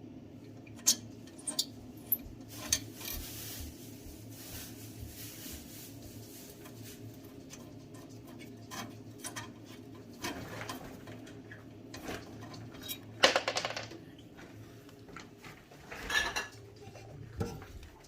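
Irregular metal clinks, taps and scrapes from the pellet stove's burn pot being cleaned out, over a steady low hum, with the loudest scraping clatter about two-thirds of the way through.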